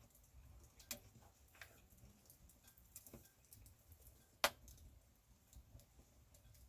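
Wood campfire crackling, with sparse irregular pops and one sharp, louder pop about four and a half seconds in.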